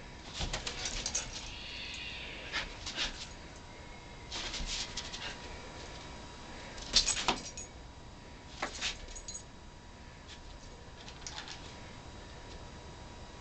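Puppy at play: a short high whine about a second and a half in, among scattered clicks and knocks, the loudest about seven seconds in.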